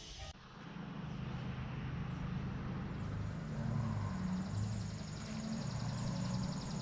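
Toyota 22R four-cylinder engine running steadily, with a fine, rapid ticking on top.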